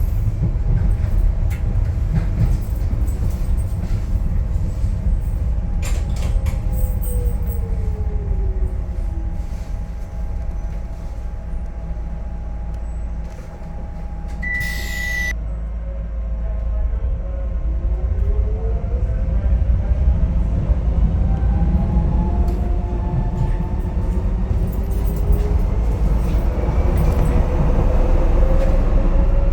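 Docklands Light Railway train running, heard from inside the carriage: a steady low rumble with an electric motor whine that falls in pitch, then rises again as the train picks up speed. About halfway through comes a single short high beep.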